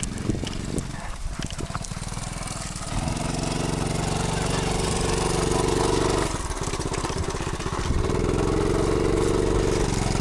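Dirt bike engine running, rising to a steady higher pitch about three seconds in, easing off briefly near the middle, then picking up again at about eight seconds.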